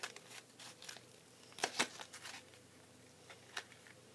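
Toy packaging crinkling and clicking in scattered bursts as hands struggle to pull it open, loudest about one and a half seconds in.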